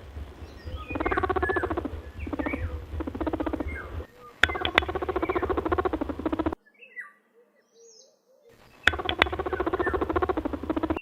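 Rabbit squeaking in a run of short, rapidly pulsing calls, with a pause of about two seconds past the middle.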